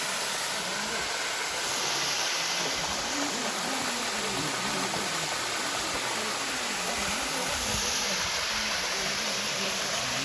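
A steady rushing hiss that swells briefly about two seconds in and again near eight seconds, with faint voices underneath.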